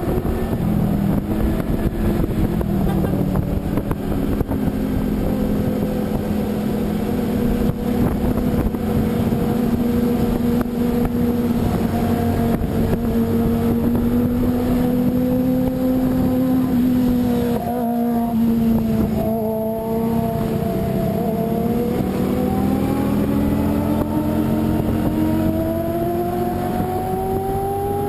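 A road vehicle's engine running under way. Its pitch holds steady for most of the stretch, dips briefly about two-thirds of the way through, then rises steadily as it accelerates.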